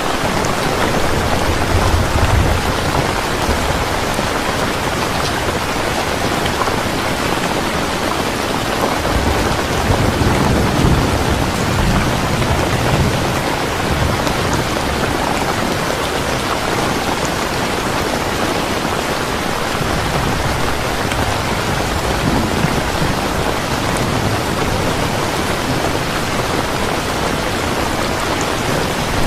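Steady heavy rain falling, a dense even hiss, with low rumbles of distant thunder swelling a few times, most strongly about ten to thirteen seconds in.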